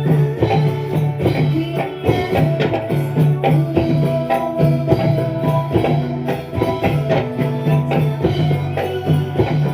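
Instrumental music of a Dolalak folk dance ensemble playing live: a steady beat of drums and tambourine under sustained pitched tones, without singing.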